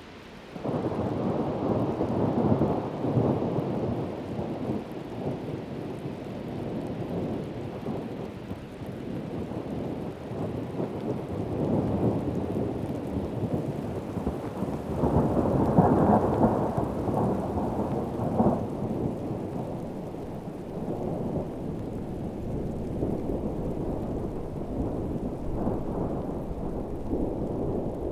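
Heavy tropical rain with low rolling thunder. The rumble starts suddenly about a second in and swells again around the middle.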